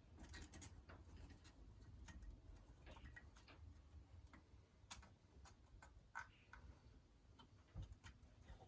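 Near silence with faint, irregular light clicks from small engine parts being handled.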